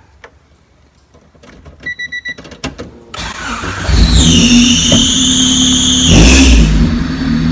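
A Honda D16Y8 four-cylinder engine starting about three seconds in. It revs once and settles into a steady idle. A high-pitched belt squeal rides over the first few seconds of running, from an accessory belt that needs replacing. Before the start there are three short beeps and a few clicks.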